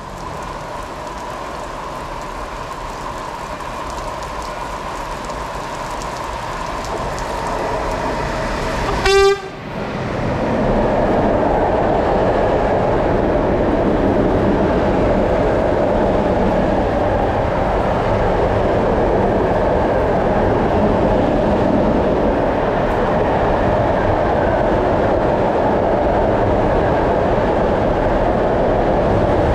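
A train approaching and growing louder, a short horn blast about nine seconds in, then the train running past loudly and steadily.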